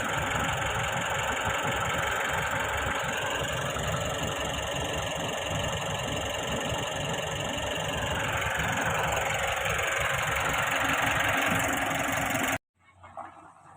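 Nissan NV350 Urvan engine idling steadily after its oil change. The sound cuts off abruptly near the end.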